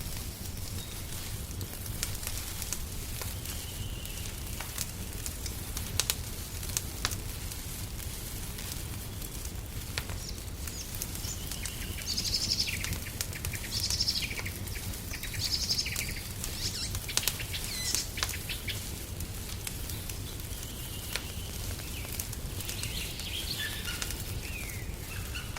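Fireplace fire crackling, with scattered sharp pops over a low steady rumble. Small birds sing short, high trilling phrases, a cluster of them in the middle and more near the end.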